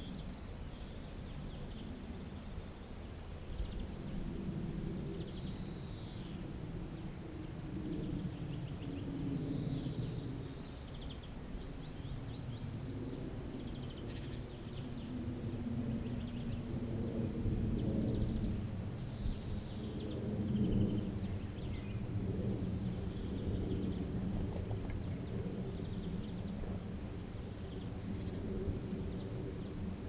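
Small birds giving short high chirps every few seconds over a steady low rumble.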